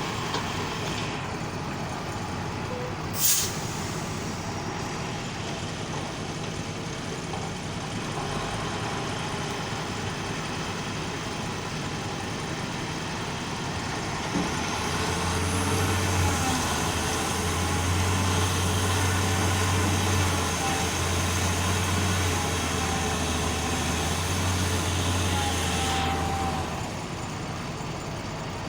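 Heavy diesel engine running steadily, with a short sharp hiss about three seconds in. From about halfway it runs louder and heavier under load for some twelve seconds, then eases back to its earlier level.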